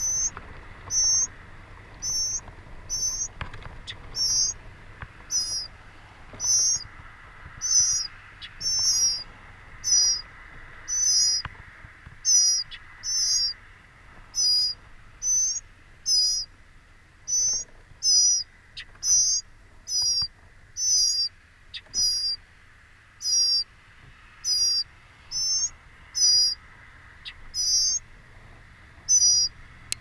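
A bird calling over and over: a high-pitched call of two quick wavering notes, repeated about one and a half times a second, over a faint steady high hum.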